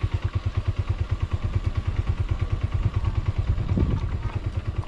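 Small motorcycle engine running at low revs: a steady, rapid putter of about nine pulses a second.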